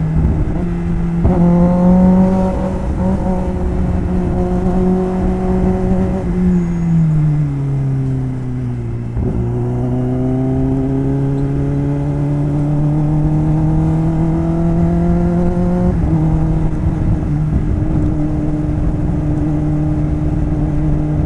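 Kawasaki Ninja ZX-10R inline-four engine running under way. Its note drops as the bike slows about six seconds in, then climbs steadily for about seven seconds as it accelerates, steps down at a gear change, and holds steady.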